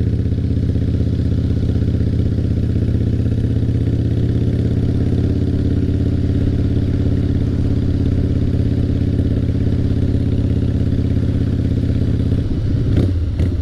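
2003 Harley-Davidson Fat Boy's 88 cubic-inch Twin Cam V-twin running through Paughco slash-cut drag pipes, held at a steady engine speed with a low, even note that does not rise or fall.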